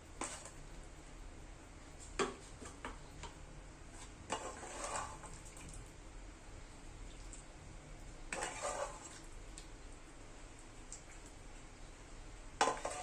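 A metal utensil clinking and scraping against cookware a few times, in short separate bouts, over a faint steady background.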